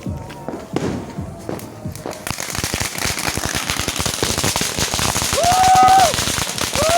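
Firecrackers going off: a few scattered bangs, then from about two seconds in a dense, continuous crackling barrage of rapid pops. Near the end a held tone sounds twice on top of the crackling, each lasting just under a second.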